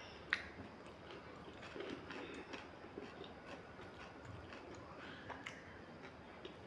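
Faint chewing and small mouth clicks of people eating, with one sharper click just after the start.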